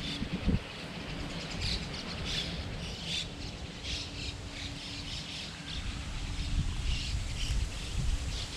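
Small birds chirping in short, scattered calls throughout, with a burst of wind rumbling on the microphone in the first half-second.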